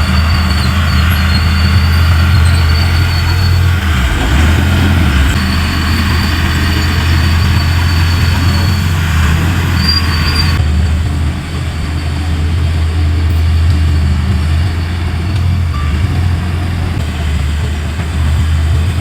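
Diesel engine of heavy earthmoving machinery running steadily under load, a loud low hum, with an abrupt change in the sound about ten seconds in.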